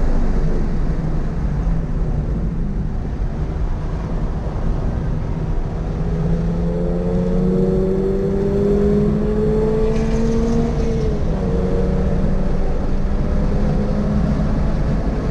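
Toyota GR86's 2.4-litre flat-four engine heard from inside the car on track, over constant road and wind rumble. Its pitch falls at the start, climbs steadily for several seconds under acceleration, then drops again about eleven seconds in.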